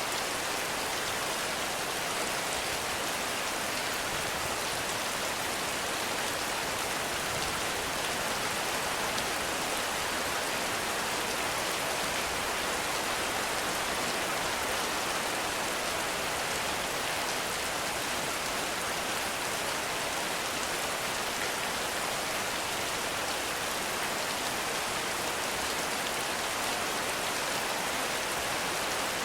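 Heavy rain falling steadily on forest foliage, an even unbroken hiss with no thunder.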